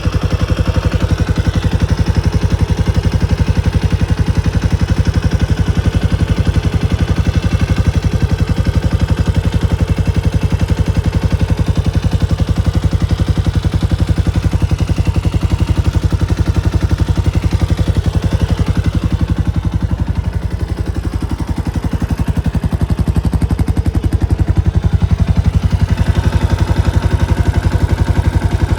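Kawasaki Estrella RS single-cylinder four-stroke engine running steadily at idle, its firing pulses even, dipping slightly in level about twenty seconds in.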